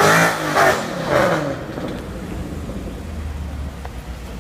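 Car engine running hard as a car passes close by: the pitch bends and drops as it goes past. After about a second and a half it fades to a low, distant rumble.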